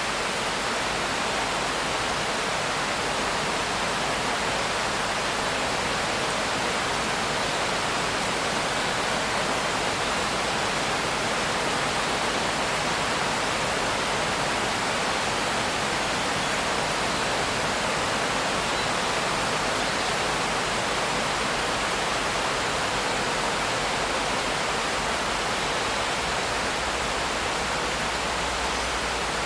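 Steady, even rain with no distinct drops or thunder.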